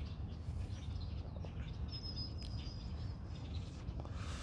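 Small birds chirping and calling, including a thin high whistled note held for about a second near the middle, over a steady low outdoor rumble.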